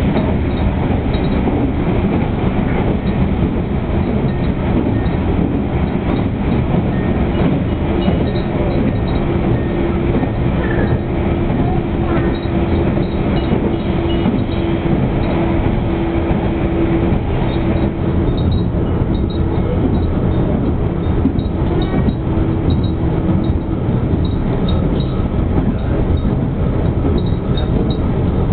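Asa Kaigan Railway diesel railcar running at speed through a tunnel, heard from inside the passenger cabin: a loud, steady rumble of wheels and running gear, with a steady hum that comes and goes in the middle.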